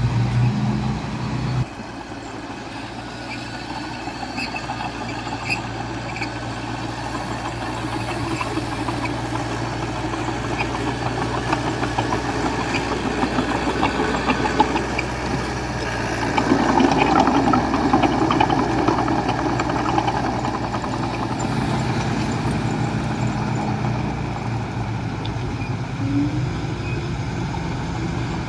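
Diesel engine of earthmoving machinery running steadily, with an abrupt change in its sound shortly after the start and a louder, noisier stretch a little past the middle.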